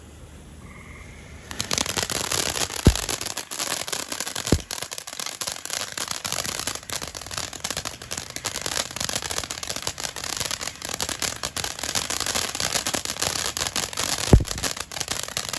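Phantom Galactic Stardust box fountain firework starting up about a second and a half in and spraying with a dense, steady crackling hiss, cut by three low thumps.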